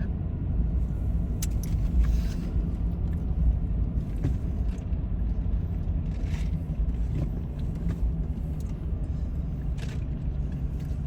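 Car running on the road, heard from inside the cabin: a steady low rumble of engine and tyre noise.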